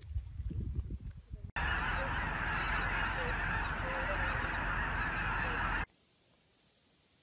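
A large flock of birds in flight, calling all at once in a dense, continuous clamor that starts abruptly about a second and a half in and cuts off suddenly about four seconds later. Before it there is low rumbling, and after it near silence.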